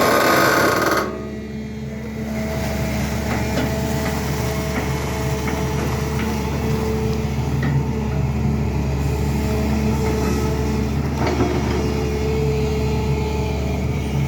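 SANY excavator's diesel engine running steadily, with a few faint knocks. A loud rush of noise over it cuts off about a second in.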